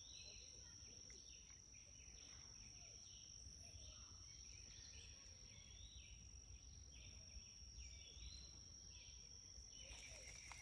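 Faint outdoor ambience: a steady high-pitched insect drone, with short chirping calls repeating about once a second.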